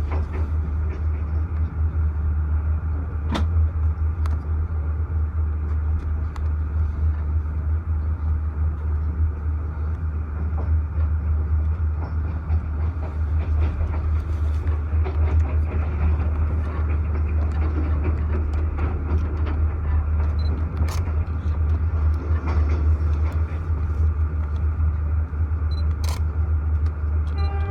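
Passenger train running along the line, heard from on board: a steady low rumble of wheels on rail with a few sharp clicks.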